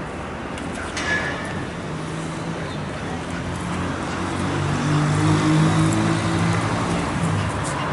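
Street traffic with a motor vehicle's engine running, its low hum growing louder past the middle. A brief high-pitched chirp about a second in.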